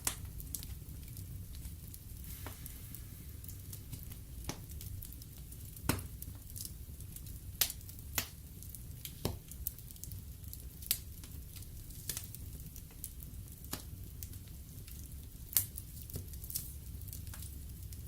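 Wood logs burning in a fireplace, crackling with irregular sharp pops about once a second over a steady low rumble of the flames.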